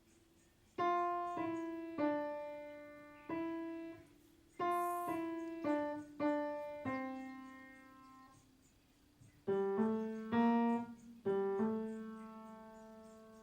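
Piano playing a slow, sparse melody of single notes, each struck and left to fade. After a short pause past the middle, a few more notes follow, and the last one rings out slowly.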